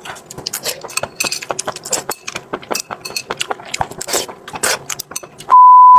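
Close-miked eating at a table: rapid, irregular clicks and clinks of utensils against dishes. Near the end a loud, steady, high-pitched beep tone cuts in for about half a second.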